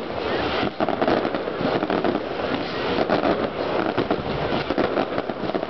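Many fireworks going off in quick succession, their bangs and crackles overlapping into a continuous rumble with no break.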